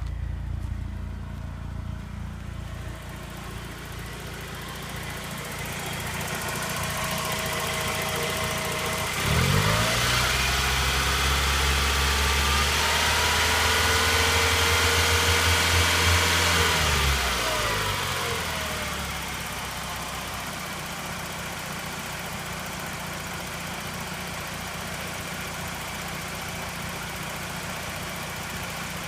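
Nissan CA20E 2.0-litre fuel-injected four-cylinder engine idling, revved up sharply about a third of the way in, held at raised revs for several seconds, then settling back to idle. The new timing belt tensioner is silent; the only ticking is the fuel injectors.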